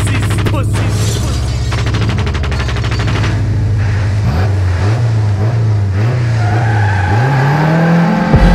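Race-prepared 1980 Toyota Corolla liftback's engine running with a rapid, rattling exhaust beat, its pitch wavering about halfway through and then rising steadily near the end as it is revved up.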